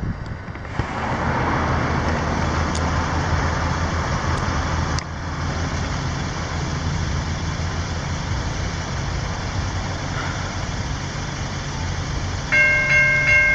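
Road traffic passing on the crossing road, with steady engine hum and tyre noise. About a second before the end, the level crossing's warning bells start ringing with a steady, evenly repeated clang.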